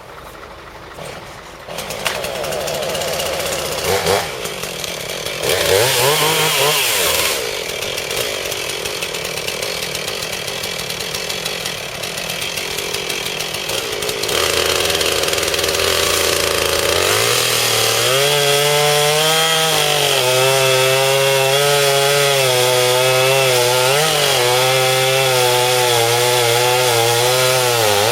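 Chainsaw running, revved up and back down about six seconds in. From about seventeen seconds it holds a steady high pitch with brief dips, as it would when sawing into the silver fir's trunk.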